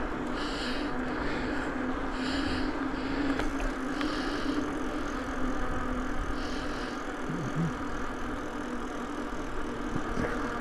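Steady rolling noise of a bicycle on the road with wind on the microphone, under a constant low hum. The rider's breath puffs in and out about every two seconds.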